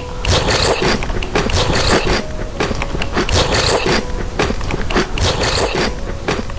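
Crunchy dessert being bitten and chewed close to the microphone: dense, loud crackling and crunching throughout.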